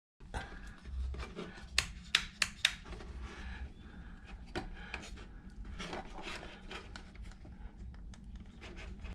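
Hands handling freshly crimped wires and switch parts: rubbing and scraping, with a quick run of four sharp clicks about two seconds in and a few lighter clicks later.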